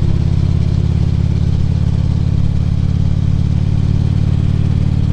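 Harley-Davidson Ultra Classic Limited's V-twin engine running steadily under the rider, heard from the helmet microphone.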